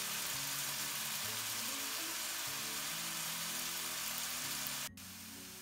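Food frying in hot oil in a pan, a steady sizzle, with background music underneath; the sizzle drops to a quieter level at a cut near the end.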